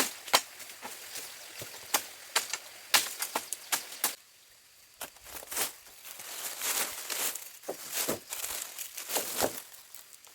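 Dry plant material crackling and rustling, with many sharp snaps and clicks; it drops out briefly about four seconds in, then the crackling and rustling grow busier.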